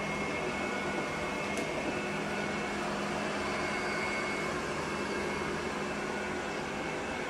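A steady mechanical hum with hiss, unchanging.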